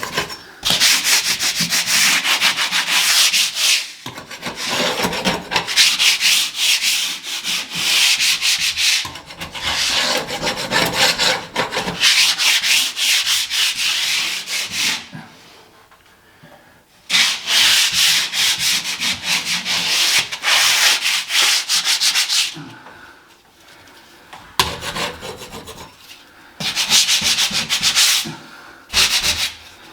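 Sandpaper rubbed rapidly back and forth over a ceiling, in bouts of a few seconds with short pauses between them, the longest pause about halfway through.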